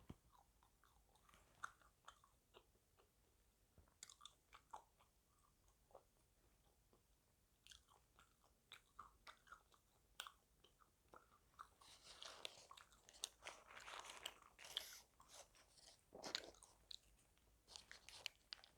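Faint, close-miked chewing and biting of KFC food, a burger and fried chicken: scattered short wet mouth clicks, with a stretch of denser crunching about twelve to fifteen seconds in.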